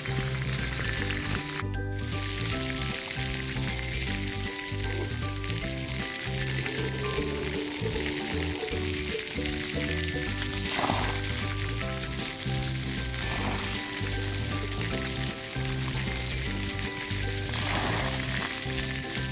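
Steady hiss of water spraying from splash pad fountains and jets, with background music playing.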